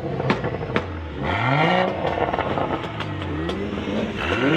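Car engine being revved repeatedly, the pitch rising and falling with each blip: one strong rev about a second in and another near the end, with sharp cracks between them.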